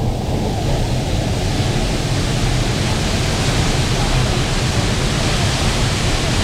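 Waterfall in full flood: a loud, steady roar of falling water, heaviest in the deep rumble, with a hiss of spray above it.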